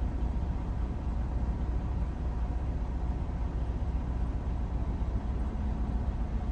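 Steady low rumble of a semi truck's engine running, heard from inside the cab.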